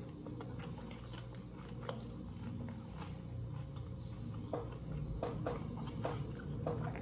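Close-up mouth sounds of eating by hand: wet chewing and lip-smacking on a mouthful of sun-dried beef and rice, a run of small soft clicks, with a few short wet smacks in the second half.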